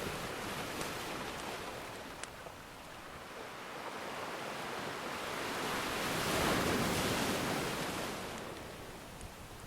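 Ocean surf: a wave swells up, breaks and washes out over a few seconds in the second half, over a steady wash of water, with a few faint fire crackles early on.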